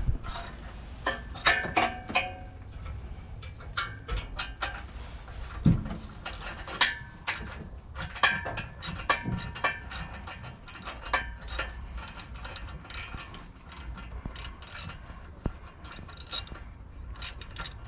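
Ratchet wrench clicking and metal tools clinking in irregular sharp strokes, some with a short metallic ring.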